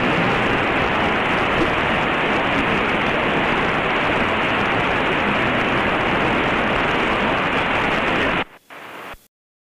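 Steady cabin noise of a Mooney single-engine plane climbing at full power, its engine and wind heard through the cockpit intercom as an even hiss. It cuts off suddenly near the end.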